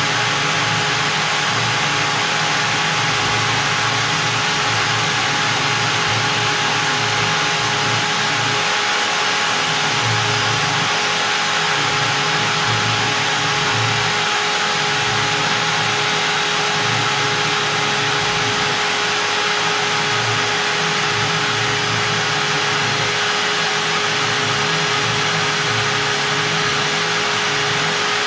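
Stepcraft M1000 CNC router's spindle running at 25,000 rpm with a steady high whine, its 4 mm up-down compression cutter milling out a part in beech.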